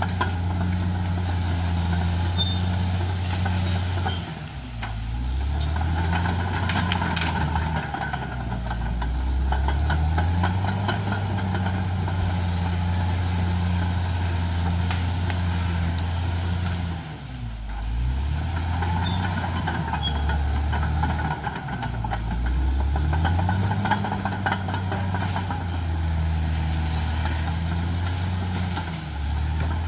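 Caterpillar D6R XL bulldozer's diesel engine running hard, its note dipping and climbing back four times, with scattered clicks and clanks over it.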